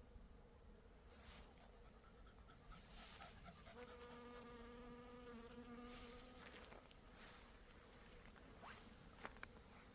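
Bees buzzing faintly, with one passing close for about two seconds from around four seconds in. A few faint clicks are scattered through it.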